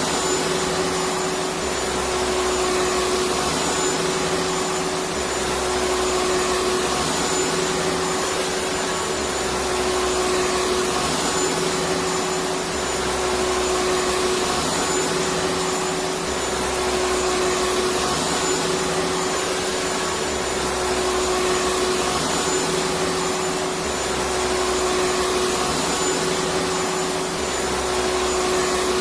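Electric vacuum cleaner running steadily: an even hiss over a constant motor hum, with a low throb that comes and goes about every two seconds.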